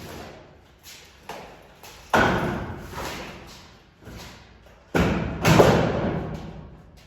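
A series of knocks and thuds, the loudest about two seconds in and two more close together around five seconds in, each dying away over about a second.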